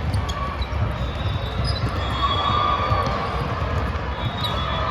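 Indoor volleyball play in a gym: ball contacts and court noise over a steady low rumble, with a few short squeak-like tones.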